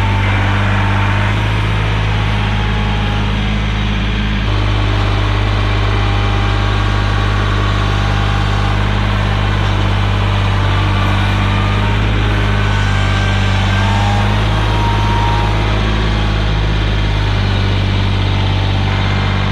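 Kioti CK3510SE compact tractor's diesel engine running steadily, with small shifts in its note about a third of the way in and near the end.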